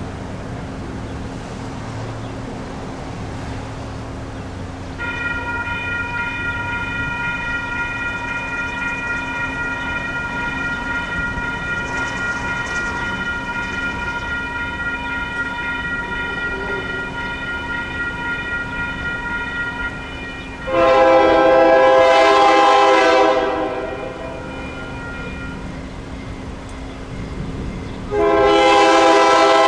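Train horn sounding two long blasts, the second starting near the end, over a steady low hum. Before the first blast, a steady high-pitched tone made of several pitches sounds for about fifteen seconds.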